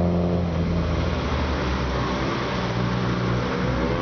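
Nissan 430 Cedric running through an aftermarket muffler with a deep, low exhaust note. Its pitch rises near the end.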